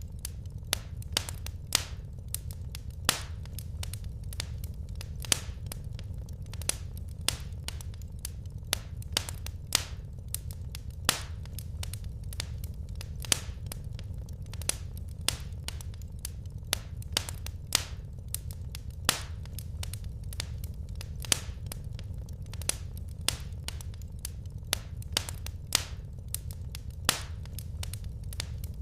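Wood fire crackling, with sharp irregular pops and snaps, a few louder than the rest, over a steady low rumble.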